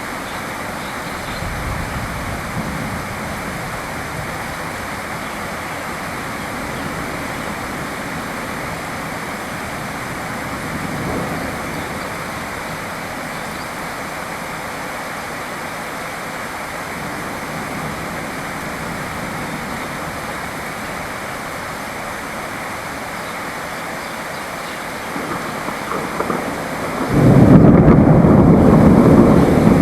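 Steady rain with low rolls of thunder swelling a couple of times. About 27 seconds in the sound jumps abruptly to a much louder, deeper rushing roar.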